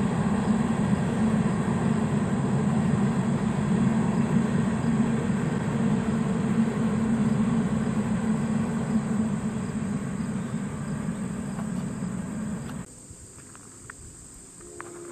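Union Pacific train rolling across the steel Kate Shelley High Bridge, a steady deep rumble of wheels on the rails. The rumble cuts off abruptly near the end, leaving insects trilling on a high note.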